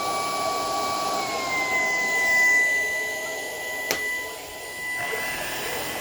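Shark PowerDetect vacuum running in eco mode: a steady motor whine whose pitch drops slightly about a second and a half in. A single sharp click comes just before the four-second mark.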